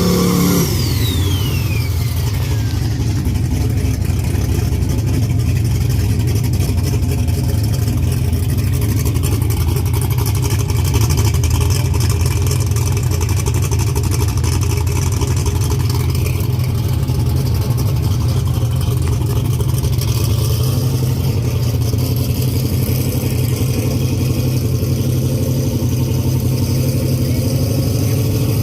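Drag race car engine running with a steady low rumble, a high tone falling in pitch over the first few seconds.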